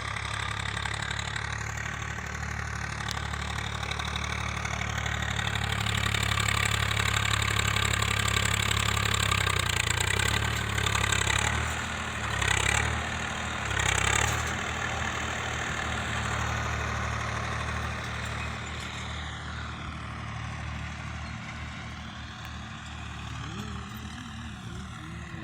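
Swaraj tractor's diesel engine running steadily, growing louder over several seconds, with two brief surges about twelve and fourteen seconds in, then easing back.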